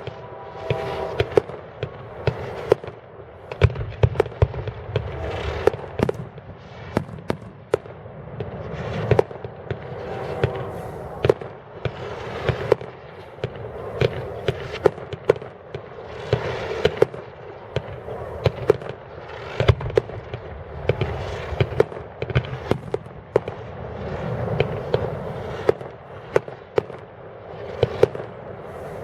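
A fireworks display: sharp shell bursts banging every second or so, often several in quick succession, over continuous crackling and hissing from the effects.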